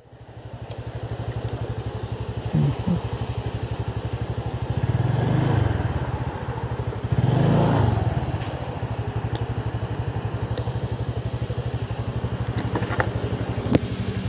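Motorcycle engine running with a rapid steady pulse, revved up and back down twice, about five and seven and a half seconds in.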